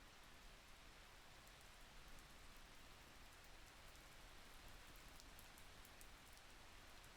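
Faint, steady rain, with scattered light ticks of drops.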